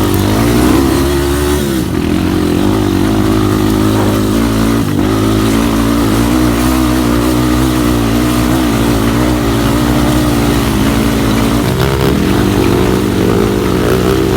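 Off-road trail motorcycle engine running steadily under way, its pitch rising and falling a little with the throttle and dipping briefly twice.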